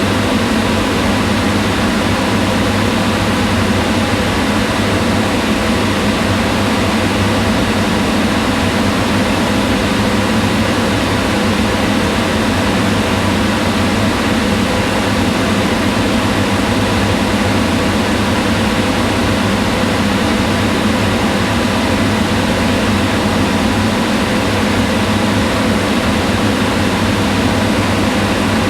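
Kitchen range hood fan running steadily: an even rush of air with a faint constant hum underneath.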